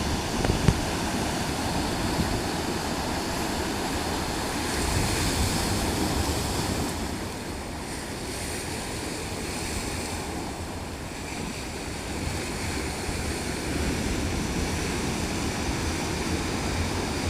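Sea waves washing, a steady rushing noise, with wind rumbling on the microphone. A single sharp knock comes just under a second in.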